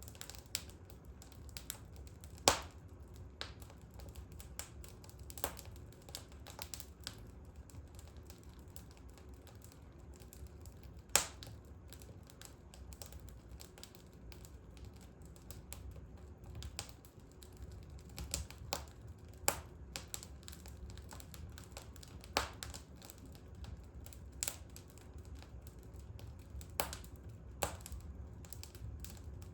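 Wood fire crackling in a fireplace: irregular sharp pops and snaps at uneven intervals, with two louder pops about two and a half seconds and eleven seconds in, over a low steady rumble.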